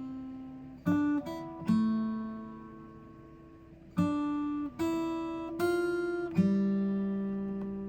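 Acoustic guitar playing an unaccompanied intro: about seven chords are strummed and left to ring out, with a longer ringing pause near the middle.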